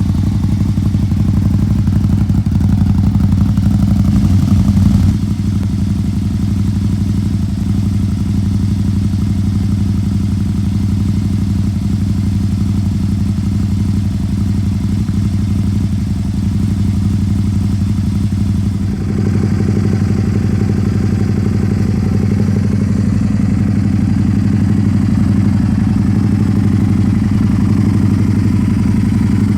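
Can-Am Spyder RS-S's Rotax V-twin idling steadily through an aftermarket Yoshimura exhaust, briefly louder about five seconds in.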